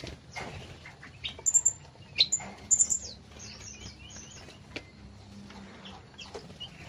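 Small songbirds in a mixed aviary chirping: a cluster of loud, sharp, high notes between about one and a half and three seconds in, with fainter scattered calls around them.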